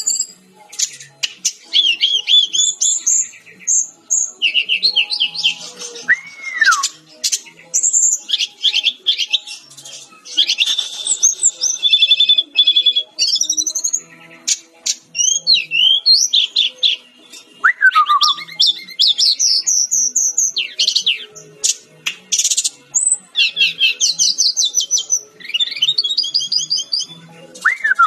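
Sikatan-rimba dada-coklat (a Cyornis jungle flycatcher) singing a long, varied song. It is made of rapid high trills and chattering phrases, broken by a few lower, falling whistled notes, one about six seconds in and another about eighteen seconds in.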